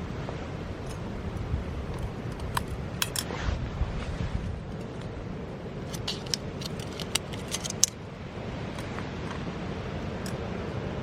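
A run of light metallic clicks and clinks, a few at first and then a quick cluster of them towards the end, over a steady low rumble.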